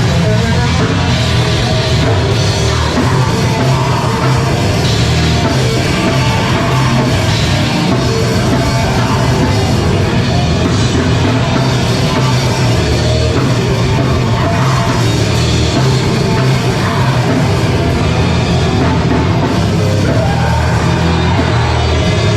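A live band playing loud heavy rock with drums, without a break.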